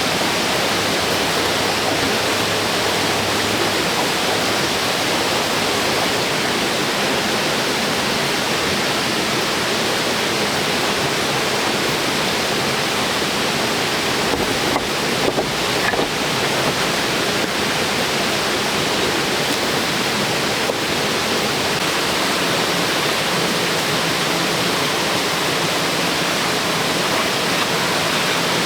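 Steady rushing water, an even hiss with no change in level, with a few faint knocks about halfway through.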